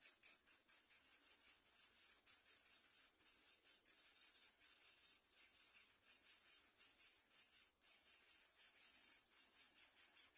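Insects calling: a dense, high-pitched, rapidly pulsing chirring, briefly dropping out near the end.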